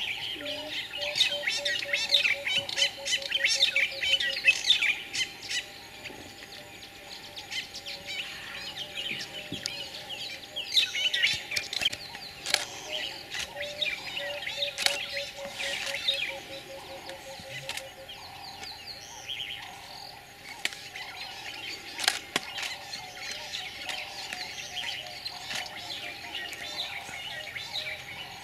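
Several wild birds singing and chirping, busiest in two spells, near the start and in the middle. Beneath them a low, rapid run of repeated notes sounds twice, and a few sharp clicks stand out.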